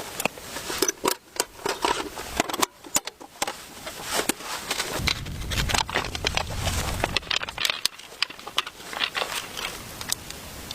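Irregular clicks, knocks and scrapes of objects being handled, with a low rumble for a couple of seconds midway.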